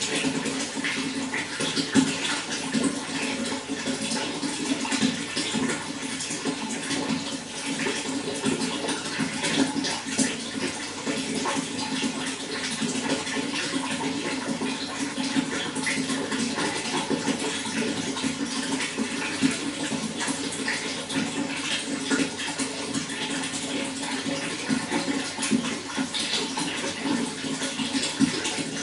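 Running water flowing steadily, a continuous rush with many small splashes and gurgles.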